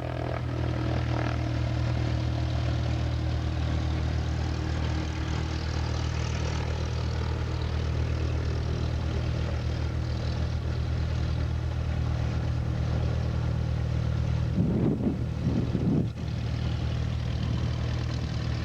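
Small propeller plane's piston engine running steadily at idle, an even low drone. About three-quarters of the way through there is a brief low rumble.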